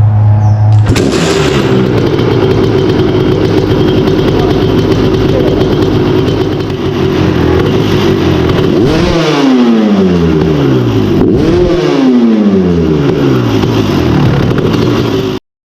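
2001 Kawasaki KX250 two-stroke single-cylinder dirt bike engine running through a Pro Circuit R304 stainless shorty silencer. It is blipped twice, about 9 and 12 seconds in, and the revs fall away after each blip. The sound cuts off suddenly near the end.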